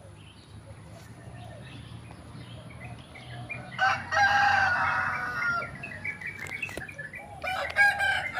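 Chickens clucking softly, then a rooster crowing once, a loud call of about two seconds starting about four seconds in; another loud call starts near the end.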